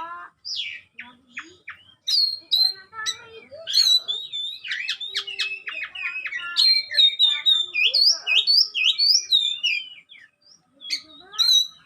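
A songbird singing a rapid, varied song of whistled notes, slides and harsh chattering phrases, with a short pause near the end.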